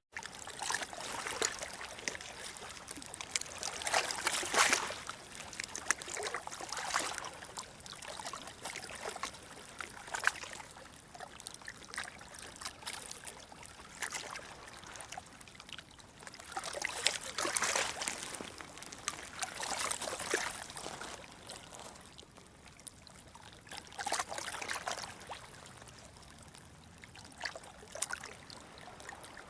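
Running, splashing water, a steady rush that swells and fades every few seconds.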